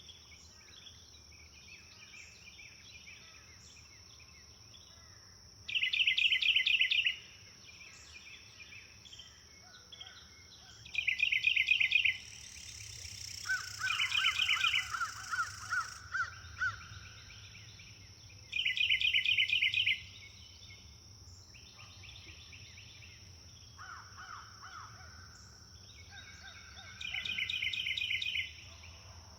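Birds singing: one bird repeats a short, rapid trill every five to eight seconds, with a louder burst of quick calls about halfway through and softer calls from other birds between. A steady high-pitched insect hum runs underneath.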